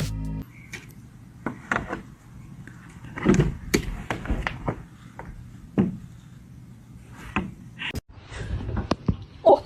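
Music cuts off half a second in, then comes a series of irregular knocks and thumps, the loudest about three seconds in and again near the end.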